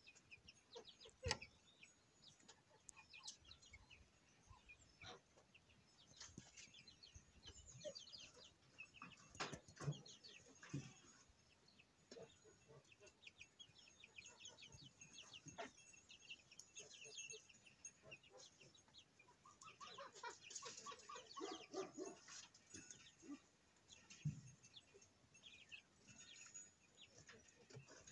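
Faint farmyard bird sounds: fowl clucking and small birds chirping, with a burst of clucking calls about two-thirds of the way through and a few scattered knocks.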